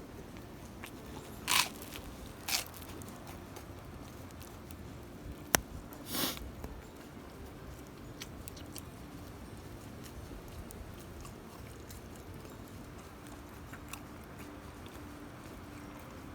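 Three short crunches and one sharp snap over a faint steady background.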